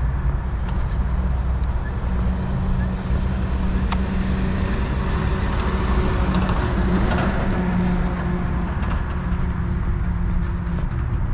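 Steady low outdoor rumble with a few faint steady tones in it, swelling into a louder hiss about halfway through, then easing back.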